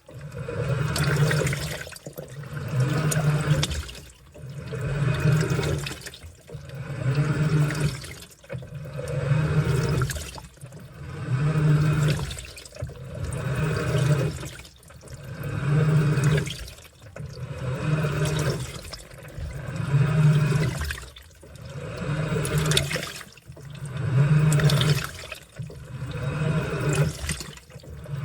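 Washing machine in its wash cycle: the motor turns the load in strokes about every two seconds, each with a low motor hum, water and laundry sloshing, then a brief lull before the next stroke.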